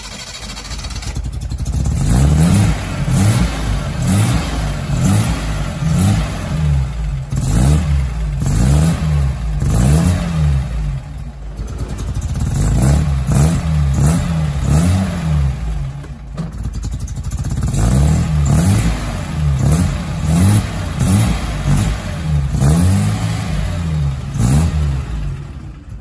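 1972 Datsun 240Z's carbureted 2.4-litre straight-six, warm and running without choke, revved in quick repeated throttle blips. Each blip rises and falls in pitch, and they come in three runs with short dips between them. The engine sounds clean.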